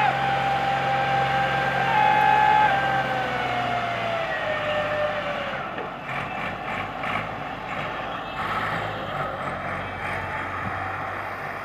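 Tractor engine running, with a high steady whine that steps up about two seconds in, then slides down and fades about five seconds in; after that the engine sound turns uneven.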